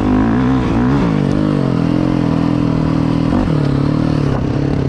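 Enduro dirt bike engine running under throttle, its pitch rising and falling through the first second or so, then holding steady before dropping to a lower pitch about three and a half seconds in.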